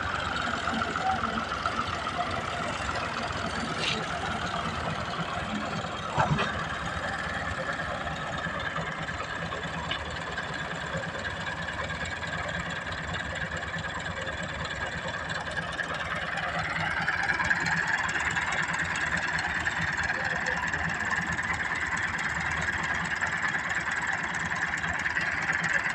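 Tractor engine running steadily, picking up in pitch and loudness about two-thirds of the way through and holding there, with a single sharp knock about six seconds in.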